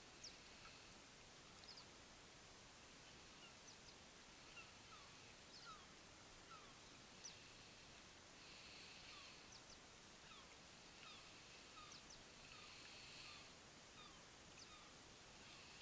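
Near silence with faint bird chirps scattered throughout, and a faint trill that comes in three times, each for a second or so.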